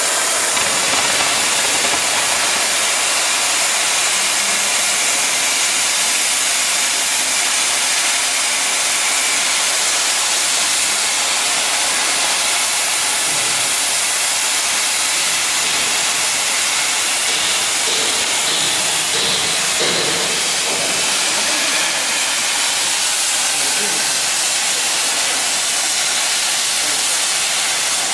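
Plasma cutting torch on a CNC cutting table, fed by a Hypertherm Powermax 105A, cutting metal plate with a loud, steady hiss.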